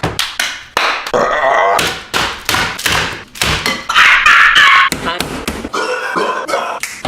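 A rapid series of knocks, taps and thuds, with a loud vocal cry about four seconds in.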